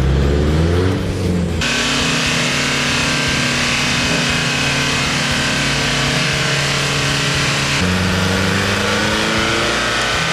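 Off-road vehicle engine running under load, its pitch rising and falling as it revs, with abrupt changes in the sound about a second and a half in and again near the end.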